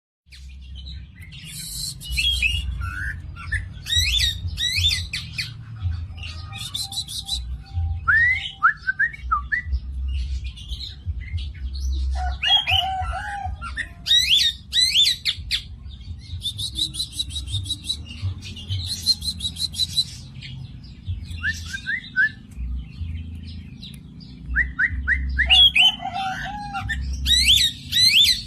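Female Oriental magpie-robin calling over and over: fast, scratchy rattling trills mixed with short sweeping whistles, with a steady low rumble of background noise underneath.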